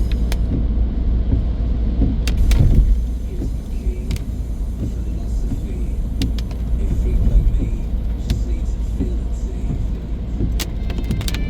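Car driving, heard from inside the cabin: a steady low rumble of engine and road noise, with a few scattered sharp clicks.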